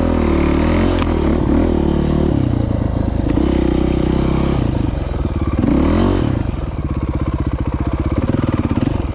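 Dirt bike engine running, its revs rising and falling several times, then settling into a steady low putter about two-thirds of the way in.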